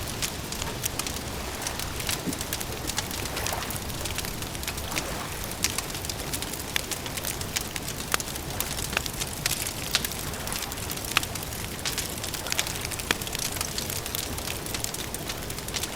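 Wood fire crackling: irregular sharp pops and snaps over a steady rushing hiss.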